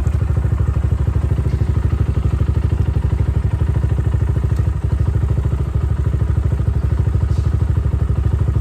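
10ten 250cc dirt bike's single-cylinder four-stroke engine idling steadily, warmed up, with an even, quick pulsing beat and a brief dip about halfway through.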